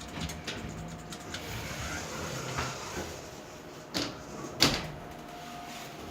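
OTIS GeN2 elevator's automatic sliding doors running, with light clicks in the first second and two sharp knocks about four seconds in, half a second apart.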